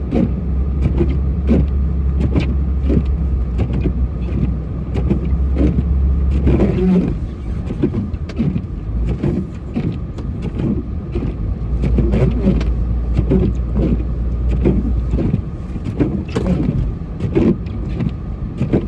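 Truck engine running under load while moving through deep snow, with a heavy low rumble for the first several seconds and again in the middle, and many knocks and rattles throughout.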